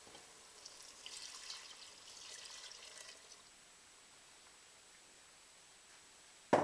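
Chicken stock being poured into a pan of sauce, a splashing trickle lasting about three seconds. Then a short quiet stretch and a single sharp knock near the end.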